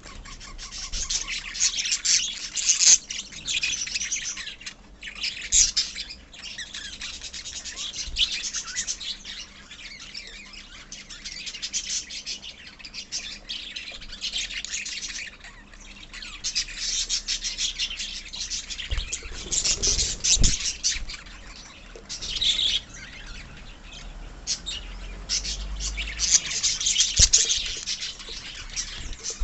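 A flock of small pet parrots, lovebirds and budgies, chattering together in dense, continuous high chirps that swell and fade every few seconds. A few dull low thuds come about two-thirds of the way in.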